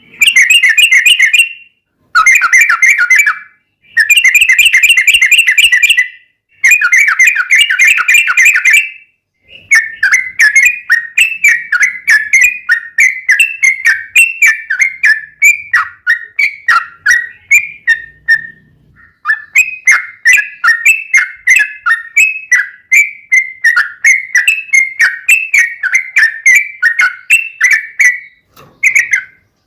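Yellow-vented bulbul (trucukan) singing loudly. First come four short bursts of dense bubbling chatter. Then a long, rapid run of quick whistled notes goes on to the end, broken by one brief pause near the middle.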